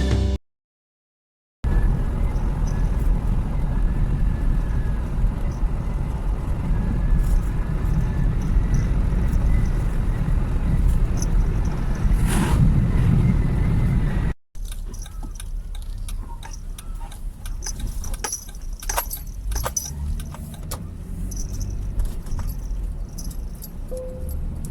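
Car on the move heard from inside the cabin: steady low road and engine noise. After a sudden cut about fourteen seconds in it turns quieter, with small rattles and clicks.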